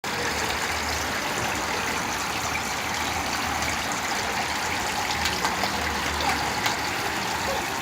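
Steady rush of water falling and splashing in a small homemade planter waterfall, kept running by a 12 W aquarium circulation pump, with a faint low hum beneath.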